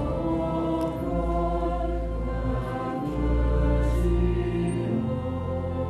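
Sacred choral music: a choir singing slow, sustained chords over a steady low bass.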